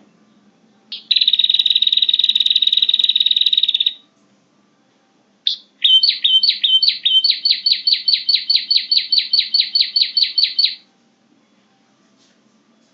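Prinia (prenjak) calls from a bird-trapping lure recording: a buzzing high trill for about three seconds, then after a short pause a fast run of sharp repeated notes, about five a second, for about five seconds.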